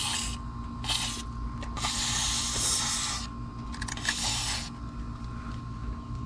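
Aerosol can of silicone spray lubricant hissing in short bursts as the dry control-arm rubber bushings are lubed to cure a clicking noise. There are four bursts, the longest about a second and a half, and a few faint clicks near the end.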